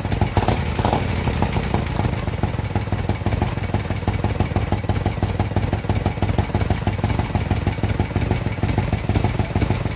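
An engine running steadily at idle, its firing a fast, even pulse.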